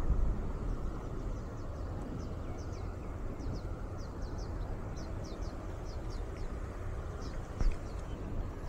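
A wild bird calling in quick runs of short, high chirps, each dropping in pitch, over a steady low rumble of wind.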